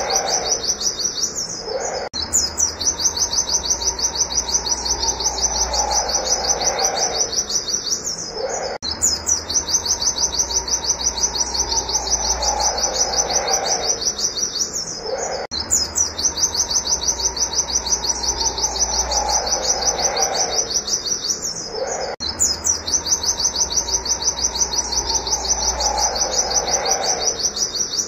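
White-eye (pleci) singing its rapid-fire 'wit wit' song: a fast run of high, sharp notes many times a second, in phrases of about six and a half seconds broken by short pauses, each phrase repeating the last exactly. A fainter, lower sound slides down in pitch beneath each phrase.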